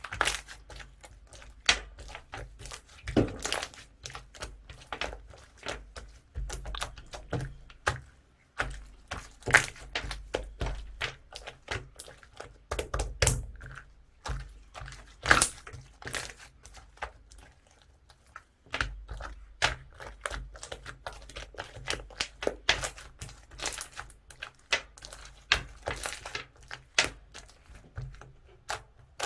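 Clear yellow slime being squeezed and stretched by hand: a steady run of sticky clicks and small pops, with a couple of brief lulls.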